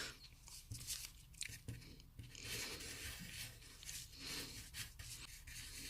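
Faint, irregular scratching and rustling of a pencil drawing on a paper map.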